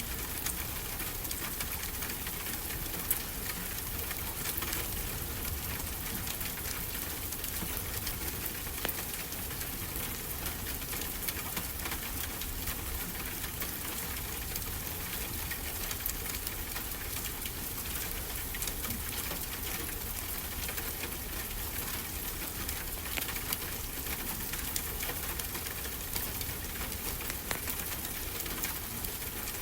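Wood fire crackling with frequent small pops and snaps, over a steady low rush of ocean waves.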